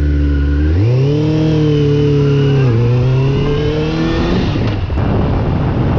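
Suzuki GSX-R sport bike engine pulling away with a passenger aboard: the engine note rises about a second in, drops briefly partway through as it shifts gear, and climbs again. Near the end the steady note gives way to a rough rumble with wind noise.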